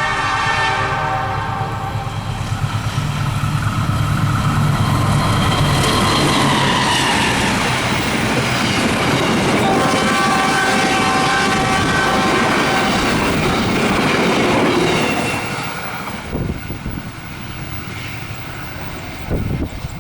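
Train passing at speed and sounding its horn, with a horn blast at the start and another about ten seconds in. The loud rumble and wheel clatter swell and hold, with a falling tone as it goes by, then die away after about fifteen seconds into wind and a few knocks.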